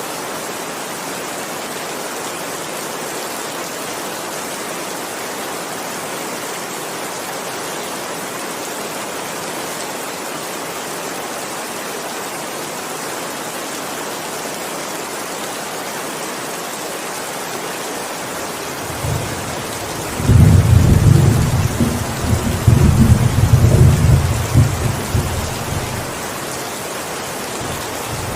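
Steady heavy rain hissing, with a long rolling thunderclap about two-thirds of the way in that rumbles loudly for several seconds and then fades back under the rain.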